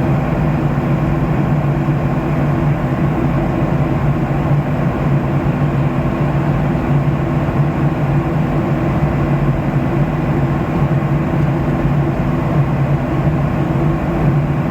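Boeing 737-700 cabin noise in the climb: a steady rush of air and engine drone with a low hum.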